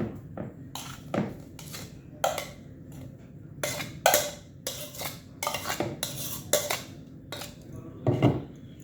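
A spoon clinking and scraping against a bowl in irregular strokes as boiled potatoes are mixed into sautéed onions and spices.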